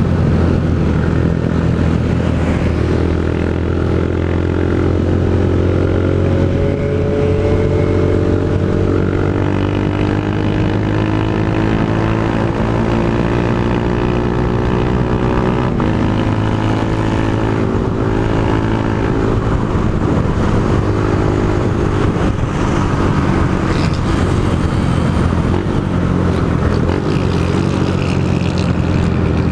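Honda CG 160 Fan's single-cylinder engine running through a Pro Tork GP Competition exhaust while riding, its pitch climbing slowly, dropping once about halfway through, then climbing again.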